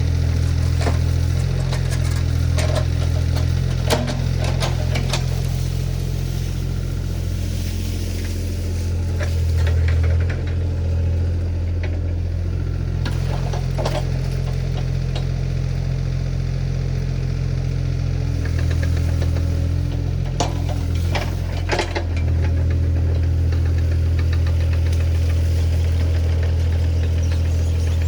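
Diesel engine of a compact construction machine running steadily under work, its note shifting a couple of times, with scattered sharp metal clanks and knocks.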